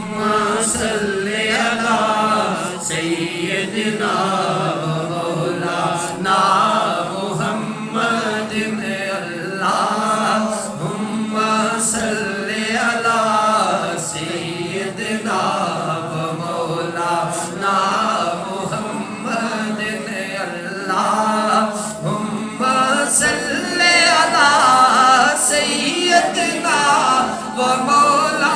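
A naat, an Islamic devotional hymn, chanted by voice in a melodic, unaccompanied style, with a steady low tone held underneath the melody.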